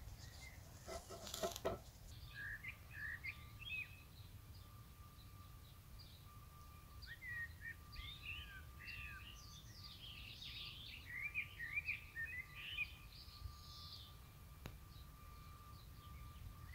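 Faint songbird chirps and warbles, busiest in the middle, with a thin steady high tone underneath and a low background rumble. A few sharp clicks come in the first two seconds.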